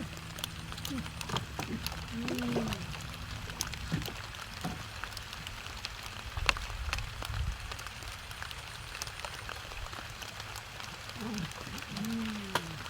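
Rain falling, with many separate drops tapping sharply.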